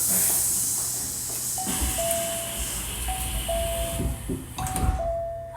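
Door-closing chime of a Hankyu 1300 series train: a two-note descending chime sounds three times over steady air hiss. The hiss cuts off near the end among low thumps as the doors shut.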